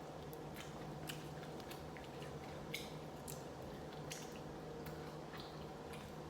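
Close-up eating sounds of short rib soup and rice: scattered soft wet smacks and clicks of chewing, over a steady low hum.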